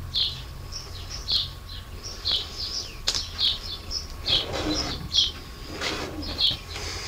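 Small birds chirping in the background, short high chirps repeated two or three times a second. A pencil scratches along a steel ruler on paper, drawing a line, at about four seconds and again at about six seconds.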